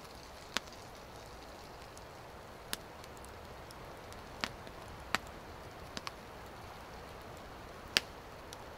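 Wood campfire crackling: a faint steady hiss broken by sharp single pops every second or two, irregularly spaced, the loudest near the end.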